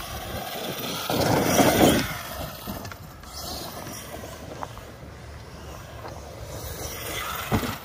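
Arrma Kraton 8S electric RC monster truck driving over dirt, its brushless drive and tyres loudest between about one and two seconds in, then running steadier. A sharp thump sounds near the end.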